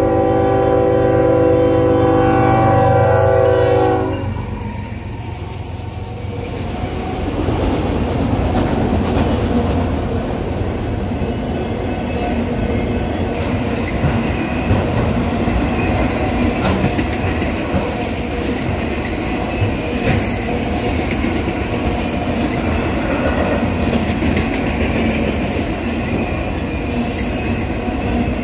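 Union Pacific diesel freight locomotive's air horn sounding a chord at the grade crossing, dropping in pitch as it passes and cutting off about four seconds in. Then a long string of autorack freight cars rolling by at speed: a steady rumble of steel wheels on rail with rhythmic clickety-clack and scattered sharp clicks.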